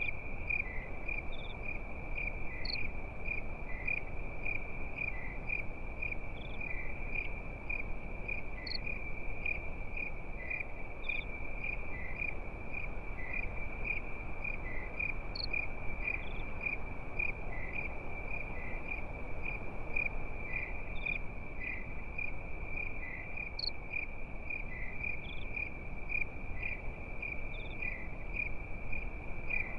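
Crickets chirping at night in a steady, even rhythm, with fainter higher insect chirps and a low even hiss underneath.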